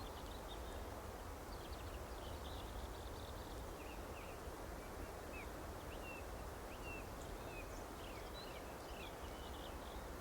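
Small songbirds chirping: many short, quick, high notes scattered throughout, over a steady low background rumble.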